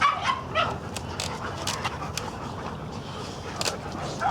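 Dogs at play: a few short high-pitched whines in the first half second, then panting.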